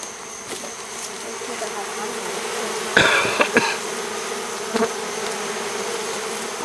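Honey bee swarm buzzing steadily in a dense mass, stirred up by being moved into a hive box. A short clatter of knocks about three seconds in and another knock near five seconds.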